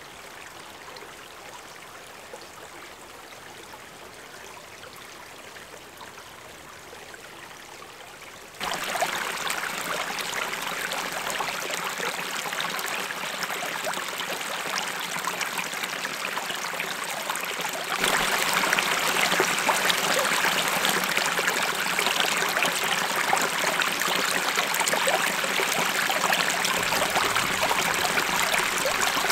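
Running water, like a stream or snowmelt runoff, as an even rushing hiss. It is faint at first, turns suddenly louder about eight or nine seconds in, louder again about halfway through, and stops abruptly at the end.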